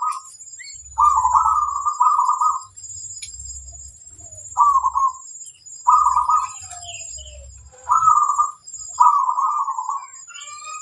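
Zebra dove (perkutut) cooing: a run of short, rolling coos, about eight in ten seconds, with gaps between them, over a steady high-pitched tone.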